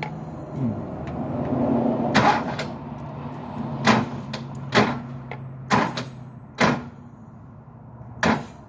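Six sharp, separate knocks and clicks from hand work on the engine's valve gear, heard over a steady low hum.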